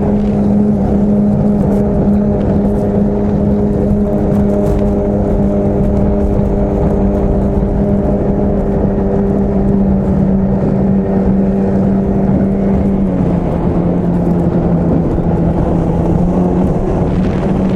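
Two-stroke 25 hp outboard motor running at a steady high speed on a small three-point hydroplane, with water and wind noise under it. Its pitch drops slightly about two-thirds of the way through and climbs back near the end.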